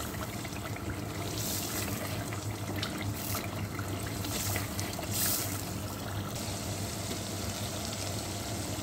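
Onion-tomato masala frying and bubbling in oil in a steel pot, a steady sizzle that swells a few times, with light ticks and scrapes of a plastic slotted spatula stirring it.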